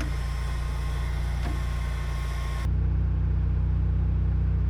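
Electric heat gun running: a steady motor hum with the hiss of blowing air. About two and a half seconds in it changes abruptly to a louder hum with less hiss.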